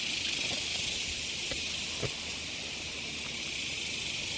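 Cicadas droning steadily in a continuous high-pitched chorus, with a couple of faint knocks about one and a half to two seconds in.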